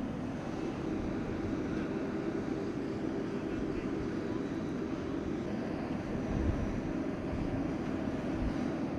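Jet aircraft engine noise, steady and continuous, without clear rises or falls.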